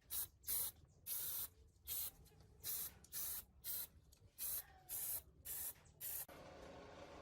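A spray nozzle hissing in about a dozen short bursts, each under half a second. A little past six seconds it gives way suddenly to a steady, quieter hiss with a faint hum.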